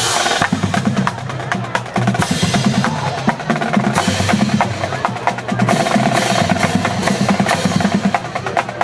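High school marching band drumline playing a cadence, with rapid snare drum strikes over bass drum hits.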